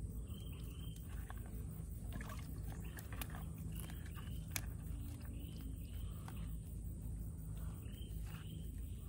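A bird calling over and over in short, arched two-note phrases, a pair every second or two, over a steady low rumble, with a few sharp clicks.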